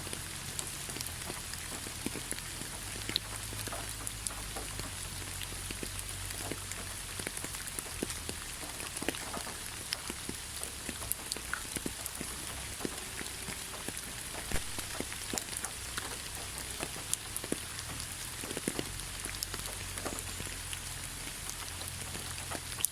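Rain falling in a forest: a steady hiss of rain with many separate drops tapping close by.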